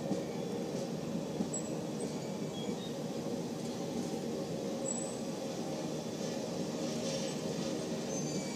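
Passenger cars of a long train rolling past at trackside: a steady rumble of steel wheels on the rails.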